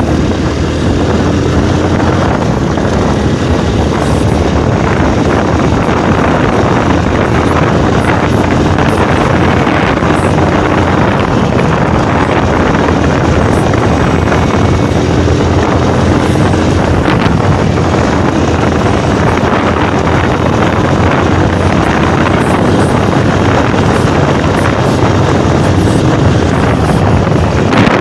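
Loud, steady wind rush on the phone's microphone while riding a motorcycle, with the motorcycle's engine running underneath.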